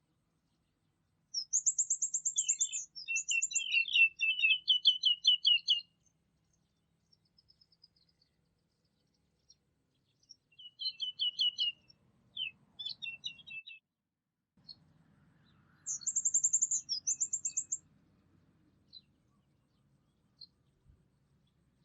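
Songbirds singing rapid, high trilled phrases in three bursts with short pauses between, the first the longest.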